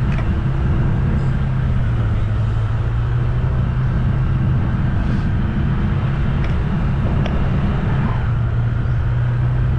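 Motor vehicle driving along a road: a steady low engine drone over constant road rumble.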